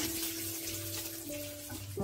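Background music with long held notes over a steady sizzle of mustard seeds, green chillies and curry leaves frying in hot oil in a pan.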